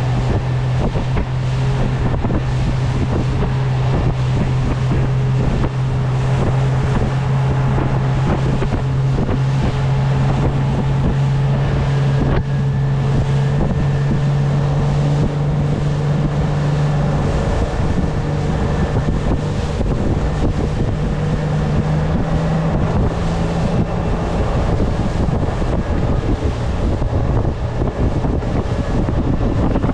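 RIB speedboat's engine running steadily under way, with wind buffeting the microphone. The engine note steps up a little in pitch past the middle.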